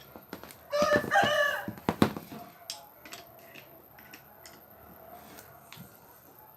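A rooster crowing once, about a second long, near the start, followed by scattered light clicks and knocks.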